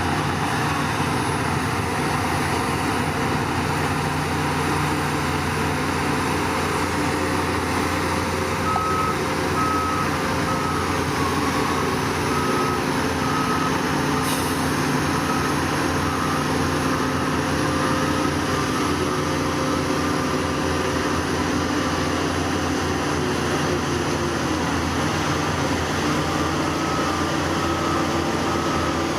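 Heavy diesel machine engine running steadily, with a reversing alarm beeping at an even rate from about nine seconds in, stopping for a while and starting again near the end. The engine note shifts once late on.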